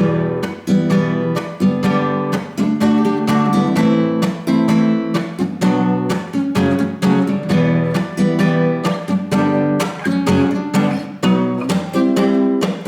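Guitar chords strummed in a steady rhythm, using a simple down, up and muted-stroke pattern.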